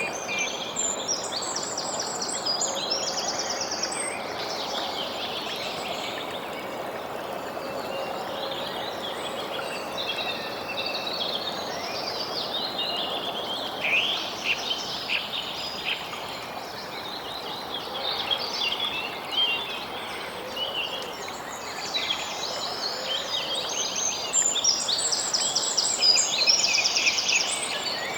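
Several songbirds chirping and trilling over a steady rushing background hiss. The birdsong grows busiest and loudest near the end.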